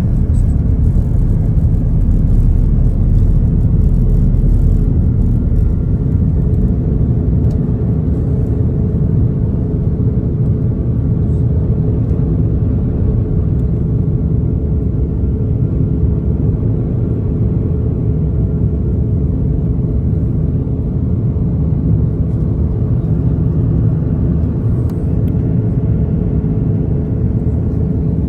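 Steady cabin noise of an Airbus A330 airliner: a deep, even rumble of engines and airflow with a steady hum, a little louder in the first few seconds.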